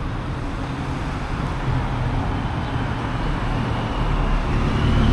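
Street traffic: motor vehicles running past, a steady rumble that grows louder toward the end as a vehicle draws near.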